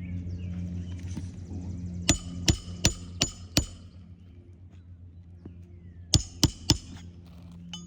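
Hammer driving roofing nails into asphalt shingles by hand: five quick ringing strikes about two seconds in, then three more about six seconds in.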